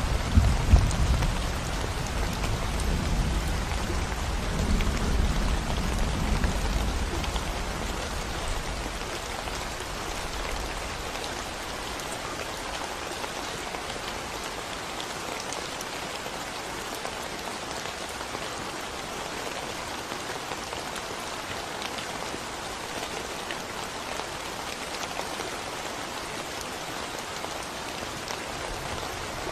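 Steady rain falling on a concrete road, a fine even patter of drops. A low rumble of thunder dies away over the first several seconds, leaving the rain alone.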